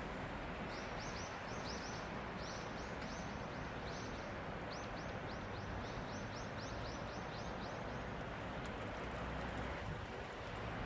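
Steady rain hiss, with a bird giving a long run of short, high chirps that each fall in pitch, about three or four a second, from about a second in until about eight seconds in.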